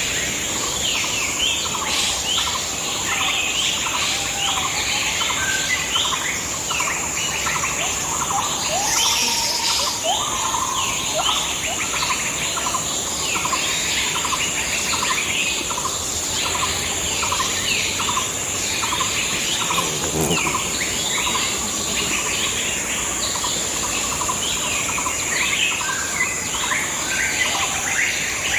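A dense chorus of forest birds chirping and calling, one of them repeating a lower note over and over through the middle, over a steady high-pitched drone.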